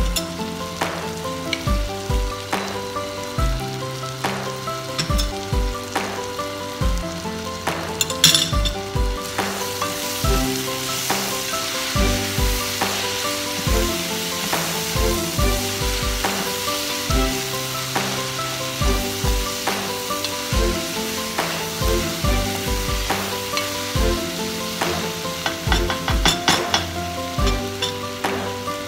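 Diced carrots, peas and tomato sizzling in a granite-coated pot as they are stirred with a spatula, with one brief sharp clatter about eight seconds in. Background music with a beat plays throughout.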